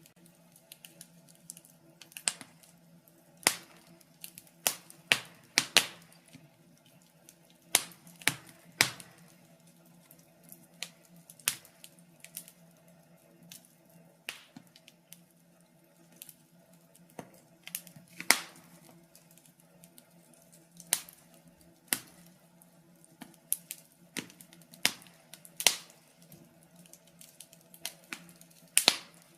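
Wood fire crackling in a fireplace: irregular sharp pops and snaps of burning logs, a few a second and unevenly spaced, over a faint low hum.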